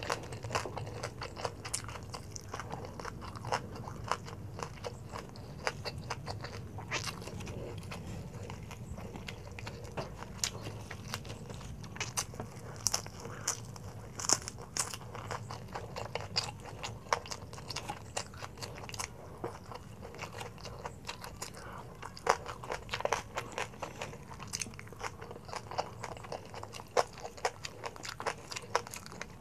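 Close-up chewing and crunching of crispy deep-fried pork belly (lechon kawali) eaten with rice by hand: irregular crackly bites and chewing clicks throughout.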